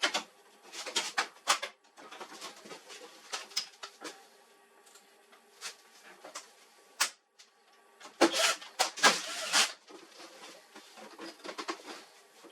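Irregular clicks, taps and short clattering bursts of plastic and metal printer parts being handled, with the busiest stretch about eight seconds in.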